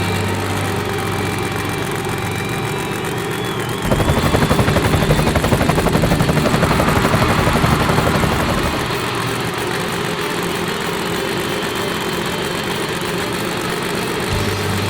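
Monster truck engine running steadily, then revving up suddenly and loudly about four seconds in for several seconds before settling back to a lower steady run.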